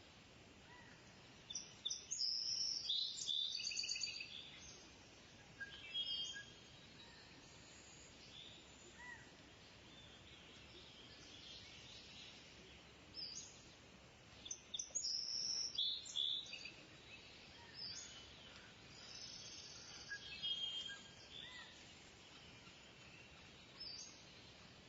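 Kingfisher calling: two bouts of rapid, high, chattering notes, one near the start and one about midway, with fainter scattered chirps between them over a steady faint hiss.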